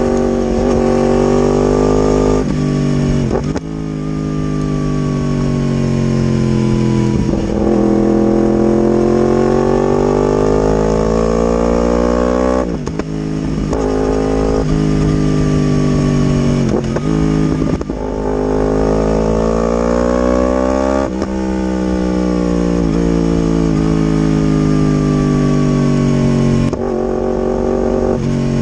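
Yamaha R1 inline-four engine through an aftermarket exhaust, running hard as the bike is ridden. The revs climb and fall in long sweeps, cut off briefly several times as gears are changed.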